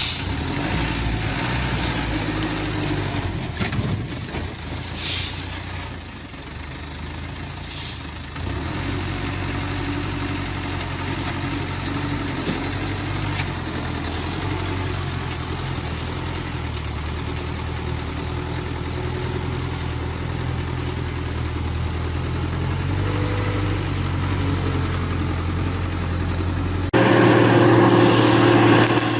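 Heavy truck engine running steadily. Near the end the sound switches abruptly to a louder, different engine.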